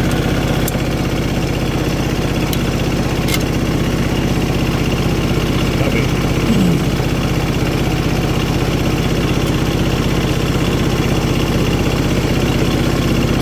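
An engine idling steadily at an even pace.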